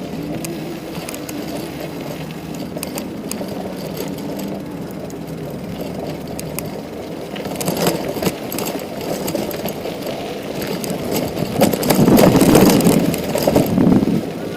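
Street traffic heard from a bicycle: a steady engine hum that swells briefly about halfway through and grows louder for a couple of seconds near the end.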